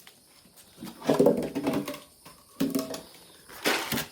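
Farm animals calling: one drawn-out pitched call about a second in and a shorter one near the middle, followed near the end by a brief noisy rustle.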